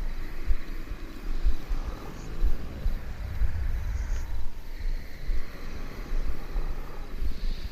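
Layered sleep sounds: cats purring in a low, fast rumble, with people's slow sleep breathing and light snoring swelling and easing every second or two, over faint soft rain.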